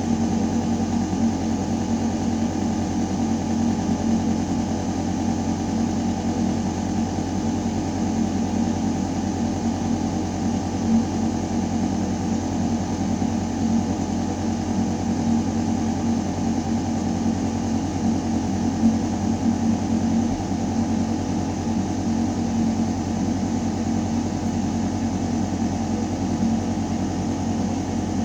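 Ventilation system running: a steady, deep mechanical hum with a rush of air moving through metal ductwork.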